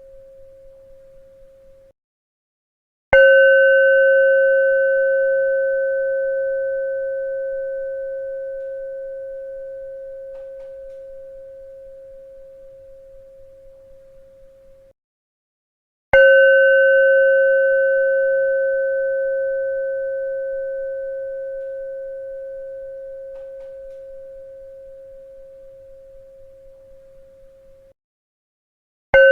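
A bell struck twice, about 13 seconds apart, each strike giving a clear ringing tone that slowly dies away over about twelve seconds, with higher overtones fading first, then cut off to silence a second before the next strike; a third strike lands at the very end.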